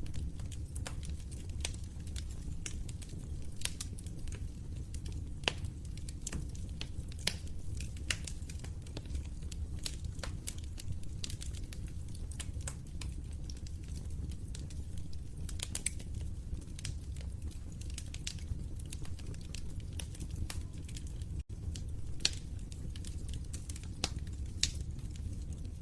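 Wood fire crackling, with frequent irregular sharp pops and snaps over a low steady rumble of burning. The sound cuts out for an instant about 21 seconds in.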